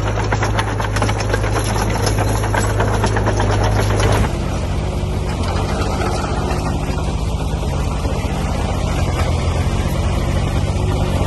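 Diesel engine of heavy earthmoving machinery running, with a fast regular clatter over the engine in the first four seconds; after a cut about four seconds in, a steadier engine sound.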